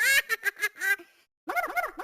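A high-pitched voice giggling and chattering in quick bursts that swoop up and down in pitch. It cuts off abruptly past the middle and picks up again about a third of a second later.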